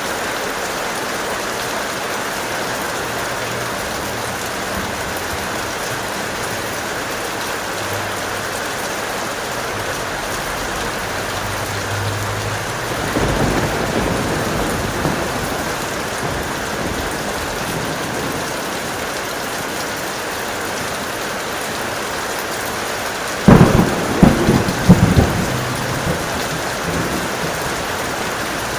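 Heavy rain falling steadily, with a low rumble of thunder about halfway through. About five seconds before the end a sudden loud thunderclap cracks, followed by a few quick rolling crashes.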